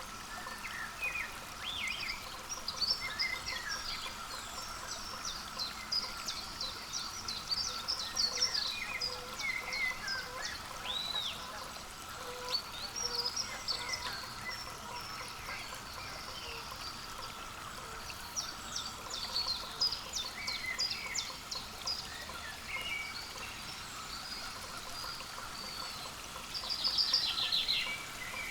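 Many small songbirds chirping and calling, with short high notes scattered throughout and a quick buzzy run of notes near the end.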